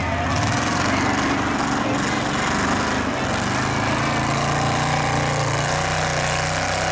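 Demolition-derby Cadillac's engine running rough and loud through open exhaust stacks as the car rolls slowly across the muddy track, getting a little louder about four seconds in.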